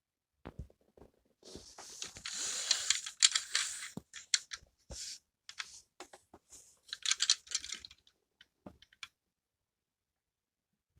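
Hard plastic toy being handled: scattered clicks and rattles of plastic parts, with two stretches of scraping and rattling, one about two seconds in and one about seven seconds in.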